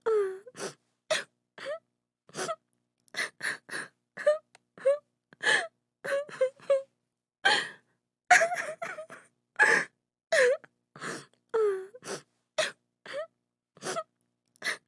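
A woman crying, in short gasping sobs and wails about two a second, the pitch of many of them falling or bending, with silent gaps between.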